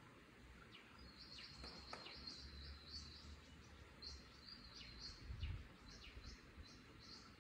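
Faint bird chirping: a quick run of short, high chirps repeating over a low background rumble, with a brief louder low rumble about five and a half seconds in.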